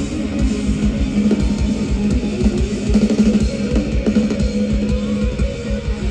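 Live rock band playing loudly, with electric guitar over a steady drum-kit beat.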